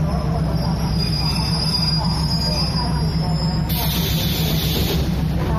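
Train arriving at a station: a steady low rumble with a high thin wheel squeal for about three seconds, then a sharp burst of hiss about a second long that cuts off suddenly.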